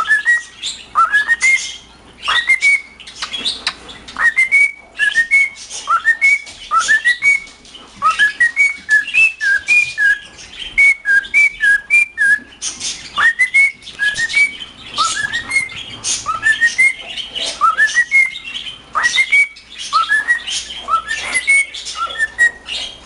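Male cockatiel singing a long run of short rising whistled notes, mixed with sharp clicks and chirps.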